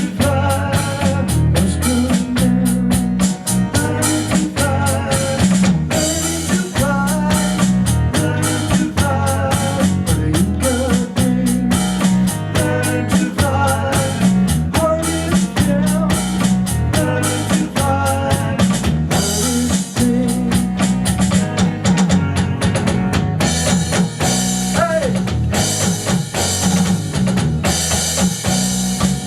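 A small band playing an instrumental groove: drum kit keeping a steady beat with snare and bass drum, under bass and melodic instrument lines.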